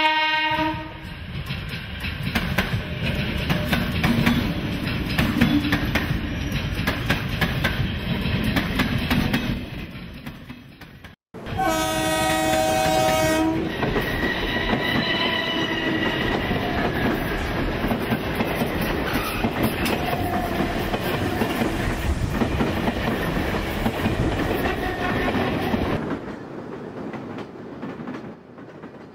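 A train horn ending about a second in, then a train running with clattering wheel noise. The sound cuts out abruptly near the middle, then a second horn blast of about two seconds and more running-train noise, which drops away near the end.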